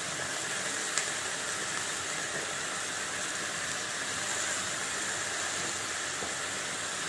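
Steady hiss of vegetables and soaked dal frying in oil in an aluminium kadai, with one faint tick about a second in.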